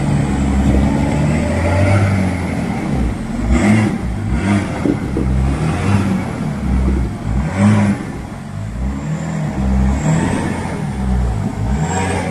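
Off-road 4x4 engine revving up and down repeatedly under load, with a few short rushes of noise partway through.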